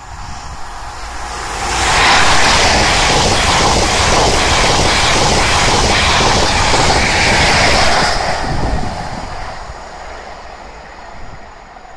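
InterCity 125 (HST) express passenger train passing at speed. A loud rush of wheels and air builds to its peak about two seconds in, holds for about six seconds as the coaches go by, then fades as the train draws away.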